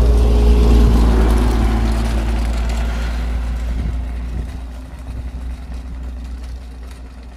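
Heavy diesel engine of road-paving machinery running loud at first, then fading steadily as it moves away.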